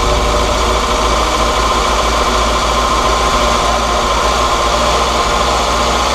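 Volkswagen Golf GTI Mk2 engine running steadily at idle, freshly brought back to life on its first starts after years off the road.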